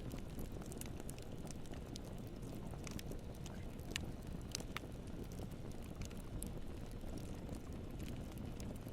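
Campfire burning: a steady low rumble of flames with scattered sharp crackles and pops of burning wood, one louder pop about four seconds in.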